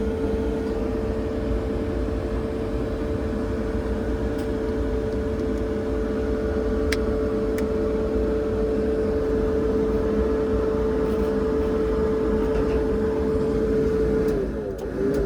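Yard dog (terminal tractor) engine running steadily, with a constant whine over the engine noise. Two faint clicks come about seven seconds in, and near the end the whine wavers and the sound drops.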